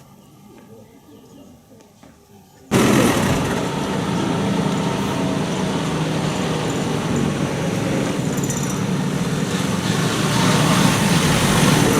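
Quiet at first; then, about three seconds in, a tractor engine starts sounding loud and close, running steadily for the rest of the time.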